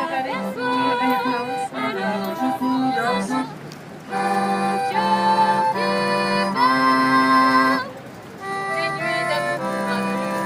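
A young woman singing live in a clear voice with vibrato, over sustained instrumental chords with a low held note. She holds a long note from about four seconds in, then breaks briefly before singing on.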